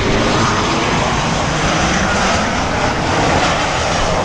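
Commercial airliner's engines, a loud steady rush.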